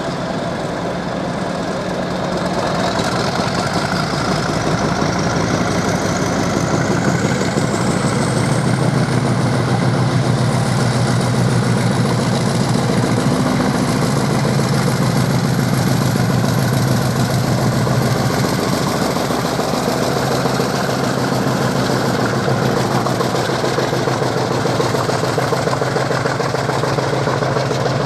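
Heavy diesel-electric locomotive engine running hard and loud. Its turbocharger whine climbs steadily in pitch from about three seconds in until about ten seconds, then holds high over a steady low engine note.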